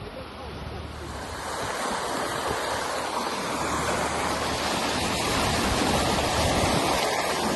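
Rushing, splashing water that grows steadily louder, with a low engine hum underneath.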